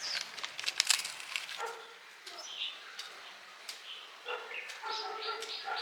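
A few sharp clicks, then an animal calling over and over in short, pitched calls that come quicker and closer together in the last second and a half.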